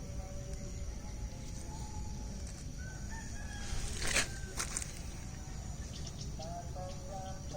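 A rooster crowing once, about four seconds in.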